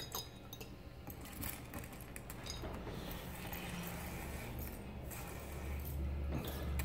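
Small pieces of ABS plastic filament dropped into a glass jar of acetone, making scattered light clinks against the glass. A low hum comes in near the end.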